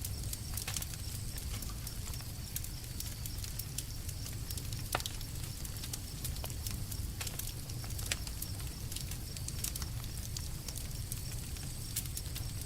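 Campfire burning: wood crackling and popping at irregular moments over a steady low rumble of the flames, with one sharper pop about five seconds in.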